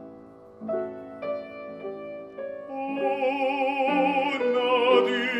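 Operatic aria with piano accompaniment: the piano plays a few separate notes and chords, then about three seconds in a baritone voice comes in on held notes with vibrato.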